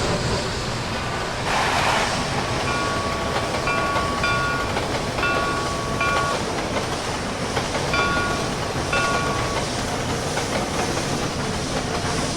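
Train running with a steady rolling noise. Short high-pitched tones sound on and off through the middle.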